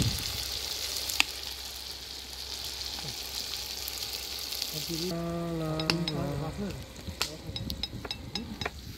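Beef, potatoes and vegetables frying in hot sunflower oil in a cast-iron kazan over a wood fire: a steady hissing sizzle that drops away suddenly about five seconds in. Right after, a man's voice is heard briefly, then a few faint clicks.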